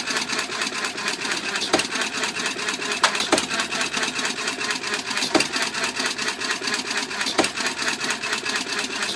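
Red Wing model hit-and-miss engine running with a fast, even mechanical clatter. Now and then a sharper knock stands out, once every one to two seconds.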